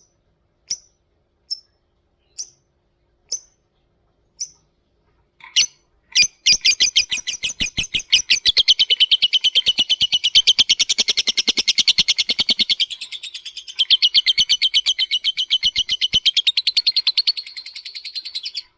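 Lovebird calling: a few sharp single chips, spaced out a little under a second apart, then from about six seconds in a long, fast, unbroken chattering trill of rapidly repeated notes (the 'ngekek'). This is a lure recording meant to set other lovebirds calling.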